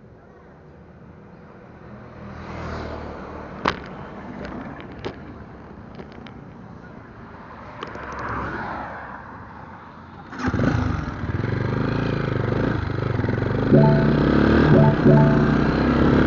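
A few sharp clicks, then a motorcycle engine starts suddenly about ten seconds in and keeps running, getting louder toward the end.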